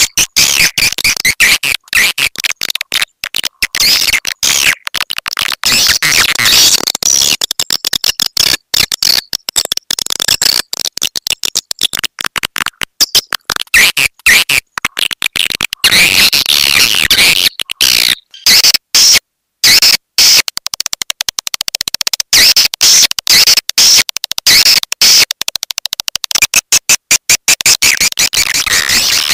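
Swiftlet calling sound of the 'petir' type: a dense, rapid chatter of high clicking chirps from swiftlets, of the kind played to lure swiftlets to a nesting house. It breaks off briefly about eighteen seconds in, then resumes.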